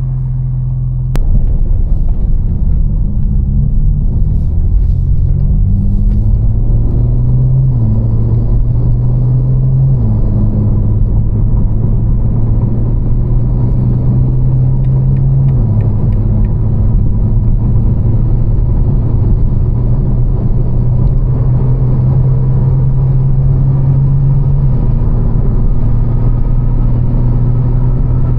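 BMW M4's twin-turbo straight-six idling as it warms up, its catless exhaust humming steadily with the idle stepping up and down slightly. About a second in there is a click and the exhaust gets noticeably louder.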